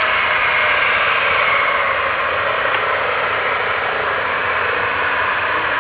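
Eurocopter EC135 helicopter running, heard as a steady, loud rushing hiss of turbine and rotor noise.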